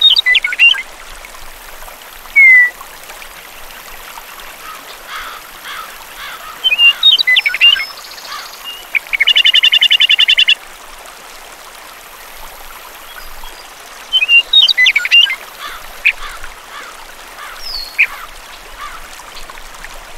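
Birds chirping and calling in scattered short phrases over a faint steady hiss, with a rapid rattling trill lasting about a second and a half around nine seconds in.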